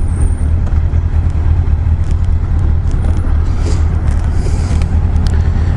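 Honda CBR1000F inline-four engine running while riding, heard through a helmet-mounted microphone as a steady low rumble under wind rush. The microphone sits behind the helmet's chin-bar air vent, which lets wind noise swamp the recording.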